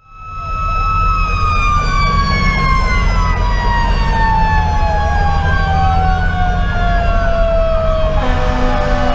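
Federal Q2B mechanical siren winding down, its pitch falling slowly and steadily, while an electronic siren wails up and down over the low rumble of the fire engine's Detroit Series 60 diesel.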